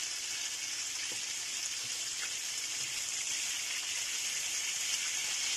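Salmon fillets frying in hot oil in a pan: a steady, even sizzle with a few faint ticks of popping oil.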